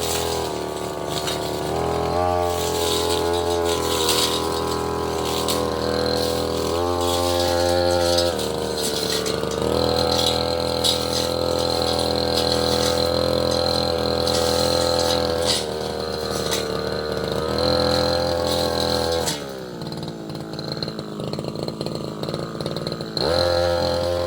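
Tasco 33 Pro brush cutter's engine running at high revs, its pitch sagging and recovering under load in the first several seconds as the blade cuts into wood and roots. It then holds steady, drops back to idle about twenty seconds in, and revs up again just before the end.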